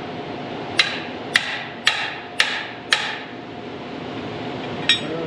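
Hammer blows on metal: five sharp, ringing strikes about half a second apart, then one more near the end.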